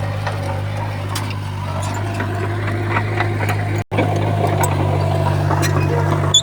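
Heavy construction machine's diesel engine running steadily, with faint metallic clanks and rattles over it; the sound cuts out for an instant a little past halfway.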